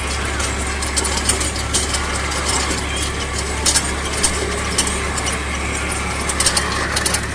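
Force Orchard mini tractor's diesel engine running steadily under load with a rotavator working, with irregular sharp clicks and rattles over the steady drone.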